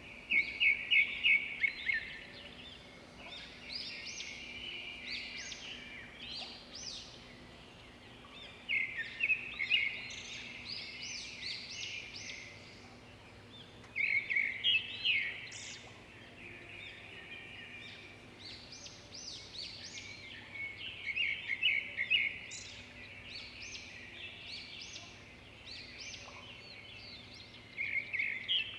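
Songbirds singing: phrases of rapid, high chirping notes repeated throughout, with louder bursts every several seconds.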